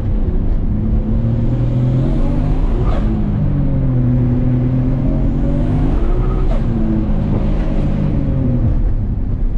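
Nissan Skyline R32 GT-R's RB26 inline-six, converted to a big single HKS T04R turbo, heard from inside the cabin while driving. The engine rises and falls in revs, with a break about three seconds in and another around six and a half seconds.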